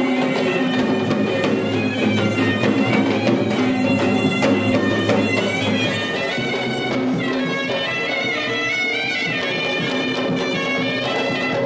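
Traditional Kandyan dance music: a shrill reed pipe plays a held, winding melody over a rapid run of drum strokes.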